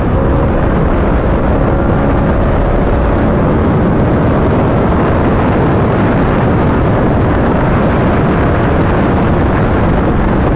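Yamaha R1 inline-four sport bike running at road speed, its engine tone faint under loud, steady wind rush on the microphone.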